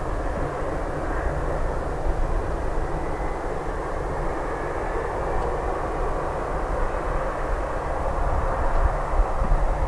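Boeing 767-300 jet engines running steadily: an even engine noise with a faint high whine over it and a fluttering low rumble.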